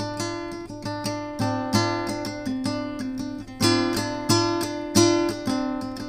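Acoustic guitar strumming chords in a steady rhythm, an instrumental passage between the song's vocal lines.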